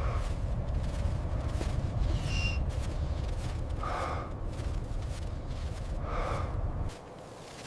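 A person gasping for breath, with a few heavy breaths about a second or two apart, over a steady low rumble that cuts off suddenly near the end.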